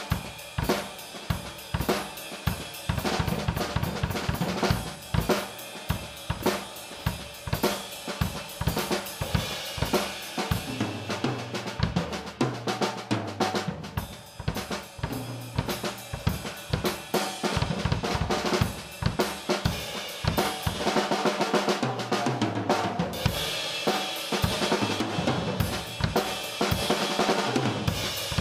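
A 1996 Pearl Export Select drum kit played in a steady groove, with snare, bass drum, hi-hat and cymbals. From about ten seconds in, a low line of stepping notes plays along under the drums.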